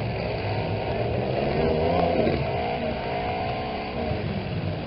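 Engines of several small trucks revving and running together during a demolition derby heat, their pitch rising and falling.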